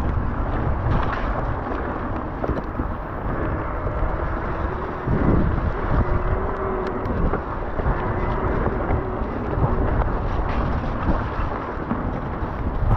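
Electric mountain bike being ridden over a rough, wet trail: steady tyre rumble with knocks and rattles from the bike, and wind buffeting the action camera's microphone.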